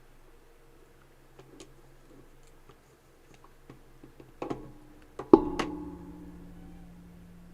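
Light clicks of things being handled at a desk, then a few sharp clacks with brief ringing about four and a half to five and a half seconds in, the loudest like a strong magnet snapping shut against metal. A low steady hum follows the loudest clack.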